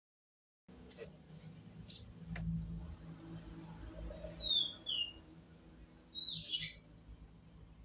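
Small bird chirping: a couple of short gliding notes about halfway through and a louder burst of chirps a little later, over a faint steady low hum.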